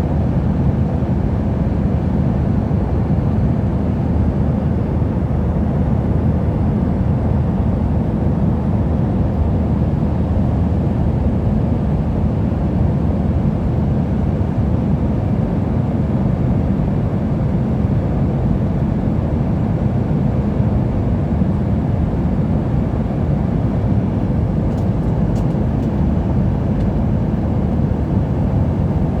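Airliner cabin noise in flight: a steady, even low rumble of engine and airflow noise heard from inside the passenger cabin.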